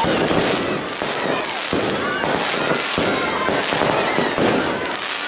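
Fireworks crackling and banging in rapid, continuous succession, with people's voices mixed in.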